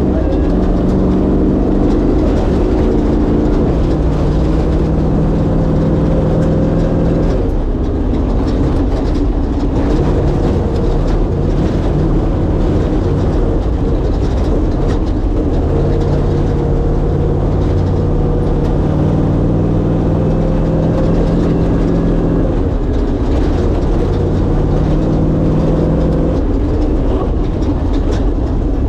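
A 1967 Ford Bronco's 363 cubic-inch stroker V8 running under way with road noise. The engine note holds steady for stretches and changes pitch a few times as the revs drop and pick up.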